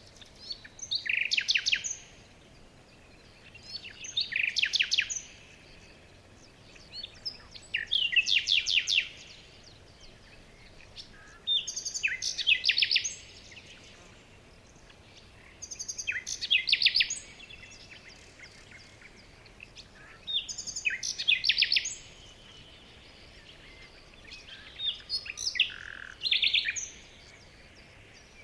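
A songbird singing a short, rapid run of notes, repeated about every four seconds, seven times in all, over a faint steady background hiss.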